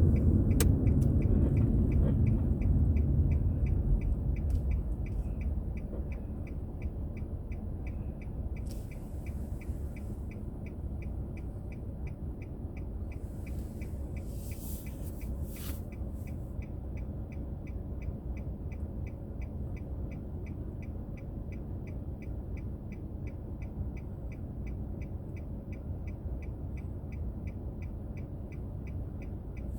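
A car's turn-signal indicator ticking evenly, about three ticks a second, heard inside the cabin over the low road hum of the car, which fades in the first few seconds as it slows to a stop and then stays steady. A brief hiss passes about nine seconds in and another around the middle.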